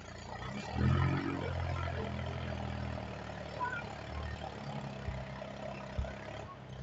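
Mahindra 265 DI tractor's diesel engine running steadily, swelling in level about a second in, with a couple of short knocks near the end.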